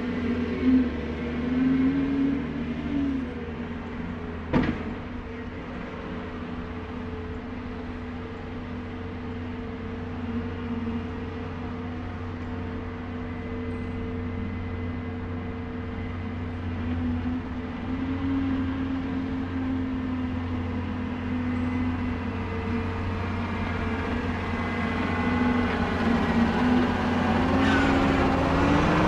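Diesel engine running at a steady speed, its revs rising and falling briefly a few times, with one sharp click about four and a half seconds in.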